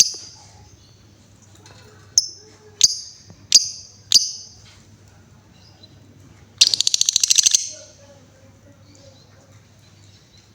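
Female lovebird calling: five sharp, shrill chips in the first four seconds, then, about two-thirds through, a rapid rattling trill of about a second. This is the 'ngetik' ticking run into the 'ngekek' chatter that lovebird keepers listen for. A steady low hum runs underneath.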